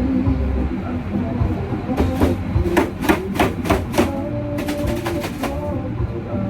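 Kitchen knife chopping on a cutting board: a run of sharp knocks starting about two seconds in, going faster into a quick series of strokes near the end.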